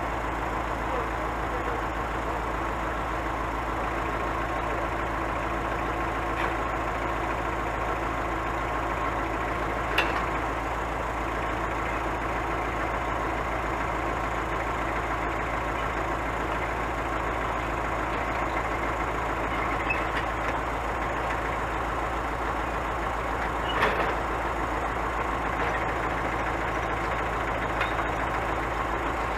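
Scania truck's diesel engine running steadily, with two short sharp knocks, one about a third of the way in and one about four-fifths in.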